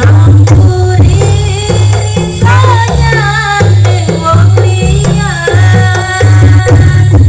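Live Javanese jaranan music, played loud: drums and a heavy, booming bass pulse under a melody line that bends and wavers in pitch.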